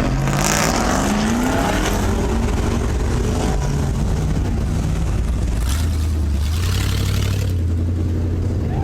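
Diesel 4x4 pickup truck engine revving, rising in pitch over the first couple of seconds, then running on at a low, steady pitch, with a second swell around six seconds in.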